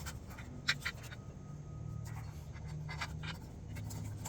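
Hand-tool work on the exhaust fittings: scattered light metallic clicks and scrapes, a few in quick clusters, over a low steady hum.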